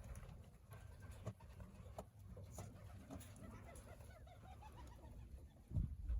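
Pigeons cooing faintly, with scattered light clicks and a run of short quiet calls in the middle; a low rumble comes up near the end.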